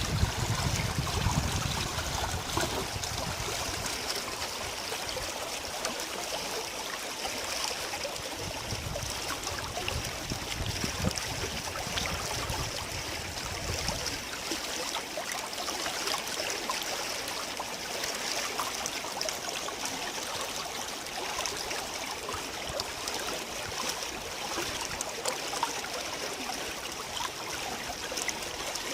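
Rain-swollen wadi stream flowing over rocks, a steady rush of running water. A low rumble comes and goes in the first half and stops about 14 seconds in.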